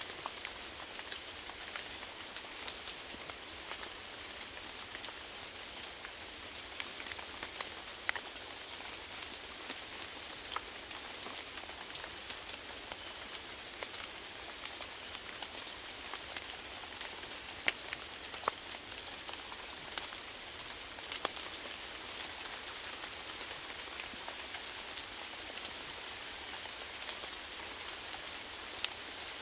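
Steady rain falling, an even hiss with the sharp ticks of individual drops landing scattered through it.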